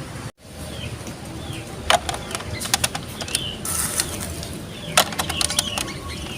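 Marbles running down a Lego Duplo block marble run: scattered sharp plastic clicks and clacks, a cluster of them about five seconds in, over a steady low rolling rumble, with short high chirps in between.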